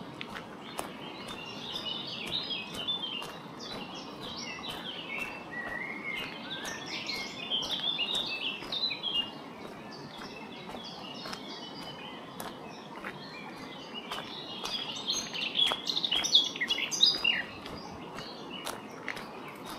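Songbirds singing in bursts of quick chirps, loudest near the end, over a steady background rush. Regular crunching footsteps on gravel at a walking pace, about two a second.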